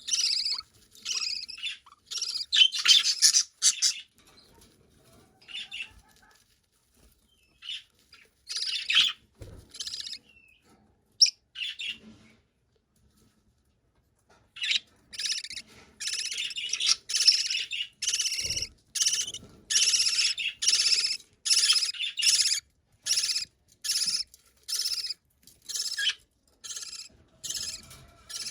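Budgerigar chicks calling to be fed: short, rapidly repeated chirps, about two a second, that stop for a couple of seconds midway and then start again.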